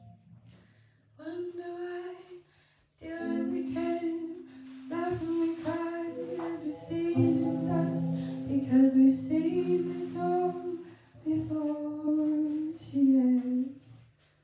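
A woman singing slow, long-held notes over a low accompaniment, with a short pause a couple of seconds in.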